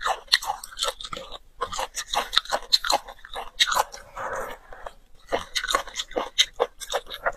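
Close-miked chewing and biting of red-braised beef bone marrow: a dense run of short sharp clicks and smacks, with a brief rush of noise about four seconds in.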